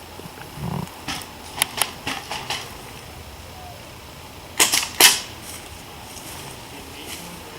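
Airsoft guns firing, sharp light snaps: scattered single shots in the first half, then a quick cluster of three or four just past the middle.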